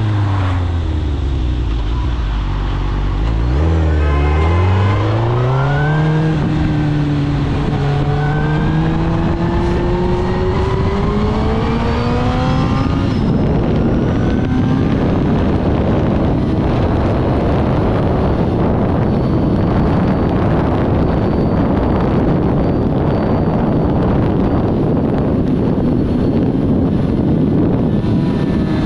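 2006 Suzuki GSX-R1000 K6 inline-four through a full Akrapovic titanium exhaust. The revs fall as the bike slows, then it pulls hard from about four seconds in, with a gear change near six seconds and the revs climbing steadily. From about thirteen seconds a steady rush of wind and engine at speed takes over.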